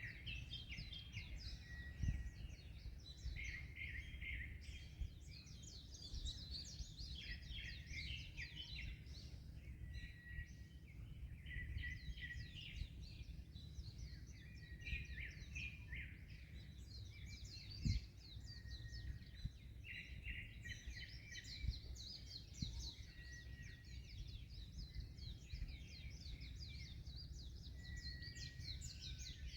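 Several small birds chirping and trilling over a steady low rumble of wind and surf, with two brief low thumps, one about two seconds in and another past the middle.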